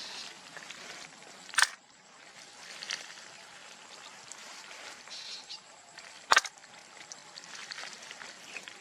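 Two sharp clicks or knocks about five seconds apart, the first under two seconds in and the second past the middle, over a faint crackling hiss.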